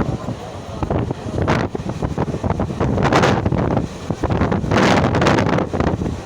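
Wind buffeting the microphone in uneven gusts over the low running rumble of a moving train.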